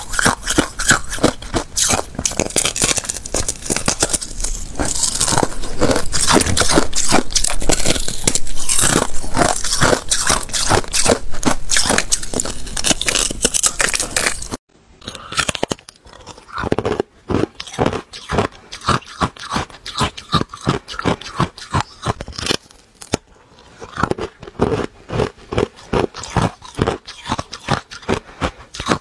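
Thin ice being bitten and chewed close to the microphone: a dense run of loud, crackling crunches, then after an abrupt cut about halfway, separate crunches at about two or three a second.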